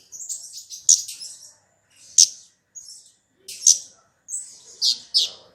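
High, sharp chirping calls of the small songbird known in Indonesia as kemade, as played on a lure recording. The chirps come in quick clusters with short gaps, and the sharpest ones fall about two seconds in and again about five seconds in.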